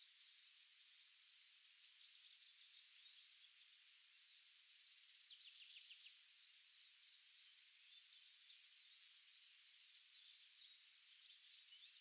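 Faint birdsong: scattered high, thin chirps over a steady soft hiss, with a brief run of quick falling notes about halfway through.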